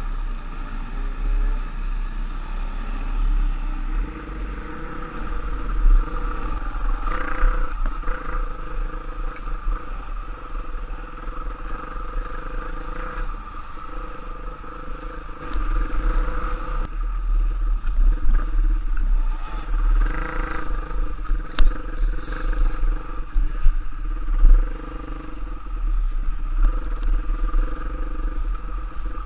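Off-road trail motorcycle engine running under a deep low rumble, its level swelling and dipping with the throttle.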